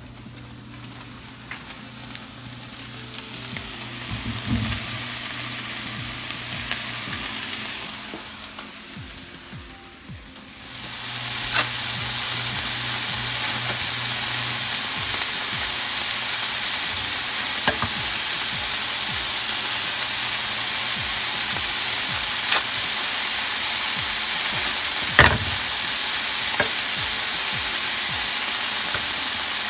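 Diced beef and peppers frying in a skillet, a steady sizzling hiss. The sizzle dies down for a couple of seconds, then comes back loud and even about eleven seconds in. A few light clicks and one louder knock near the end sound over it.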